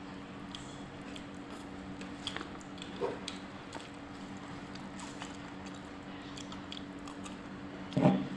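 Close-up eating sounds: a person biting and chewing tahu tek with bean sprouts and crackers, with scattered small clicks over a steady low hum. A short knock comes about three seconds in, and a louder thump near the end.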